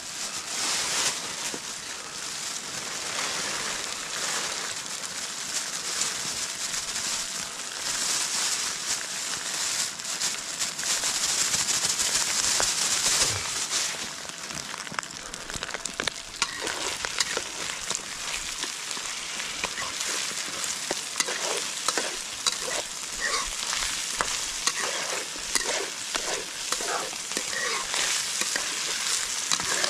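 Rice frying in a hot wok on a camping gas stove: a steady sizzle that grows louder about 8 to 13 seconds in. From about halfway on, a metal ladle scrapes and knocks against the wok as the rice is stirred.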